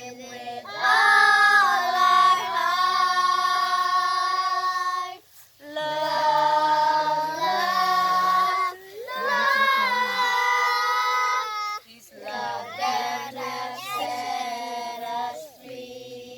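Children singing a song in long held notes, in four phrases with short breaks between them.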